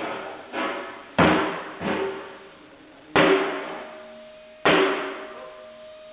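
Hammer blows striking an old stove while it is being dismantled, each blow ringing briefly before it dies away. There are two lighter knocks early on, then three heavy blows about a second and a half apart.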